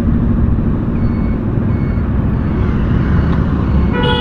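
Motorcycle riding in road traffic: a steady rumble of engine and wind, with a faint short high beep repeating about once a second. A short vehicle horn sounds at the very end.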